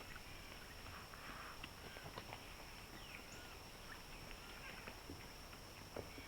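Faint woodland ambience picked up by a trail camera: a steady high-pitched drone, scattered soft clicks and rustles, and a few faint bird chirps.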